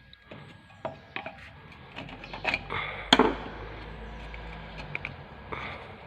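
Irregular knocks and clinks of metal tools and brake parts being handled during rear drum brake work, the loudest knock a little after three seconds in.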